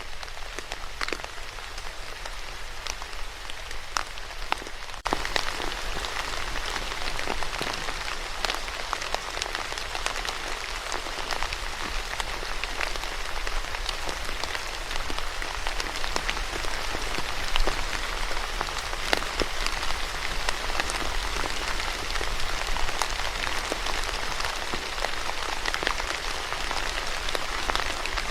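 Steady rain falling, with many individual drops pattering on a surface. About five seconds in, the rain abruptly becomes louder and fuller.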